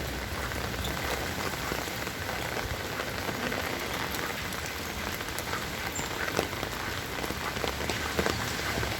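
Heavy rain falling: a steady hiss with many sharp drop ticks scattered through it.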